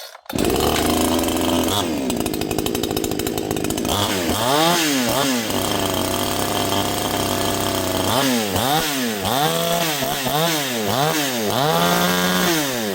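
62cc two-stroke gas chainsaw with a traditional (non-easy-start) recoil starter catching just as the sound begins and idling briefly. It is then revved repeatedly, with several quick rises and falls in pitch, a steady higher-speed run in the middle, and a held high rev near the end.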